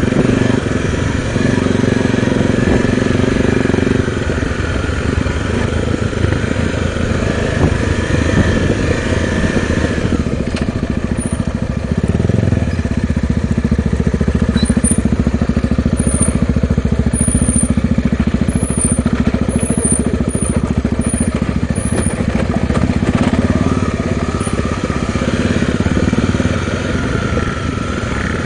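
Honda Tornado 250 single-cylinder trail motorcycle engine running steadily while being ridden, its pitch shifting a little with the throttle.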